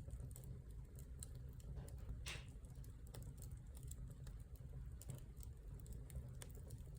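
Wood fire burning in a fireplace, crackling with irregular sharp pops over a steady low rumble, with a brief hiss about two seconds in.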